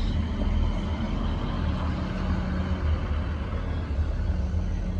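Class 158 diesel multiple unit running at the platform: a steady low diesel rumble with a faint humming tone.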